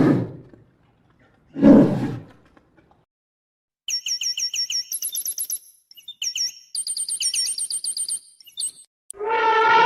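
A sequence of animal calls: two short, rough roar-like bursts, then a bird giving rapid, high repeated chirps for about five seconds, and near the end a drawn-out pitched animal call begins.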